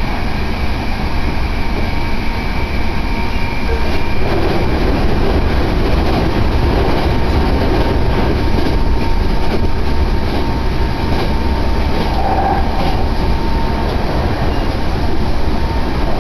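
Hankyu Kobe Line electric train running at speed, heard from inside the passenger car: a steady rumble of wheels on rail with a faint steady whine, and faint clicks of rail joints through the middle stretch.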